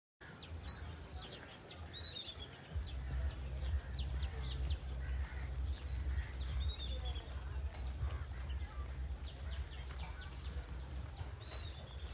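Several birds chirping and calling, with quick runs of sharp repeated notes among the chirps. A low rumble underneath grows stronger about three seconds in.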